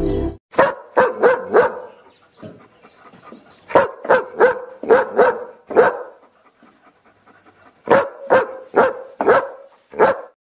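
German Shepherd-type dog barking in three runs of quick, sharp barks, about three a second, with pauses of about two seconds between the runs.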